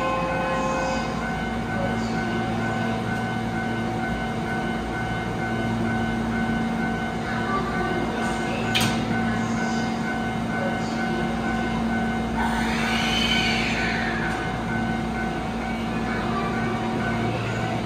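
Electric train at an underground station platform, running with a steady electrical hum. A sharp click comes about nine seconds in, and a tone rises and falls again around twelve to fourteen seconds in.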